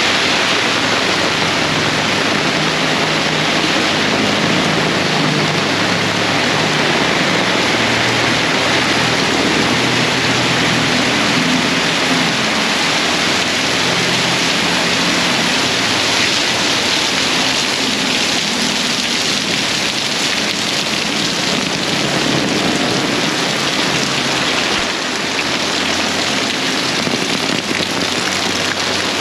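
Torrential rain pouring down steadily, a dense, loud hiss of heavy rain striking the ground and puddles.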